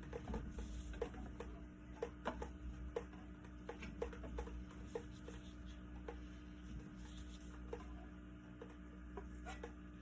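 Faint, irregular light taps and rubbing over a steady low hum.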